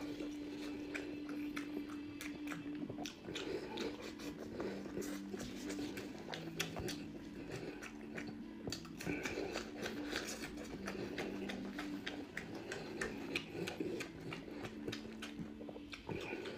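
Close-up wet chewing and lip-smacking of a man eating braised meat by hand, with many short sticky mouth clicks. A low steady hum that shifts pitch a few times runs underneath.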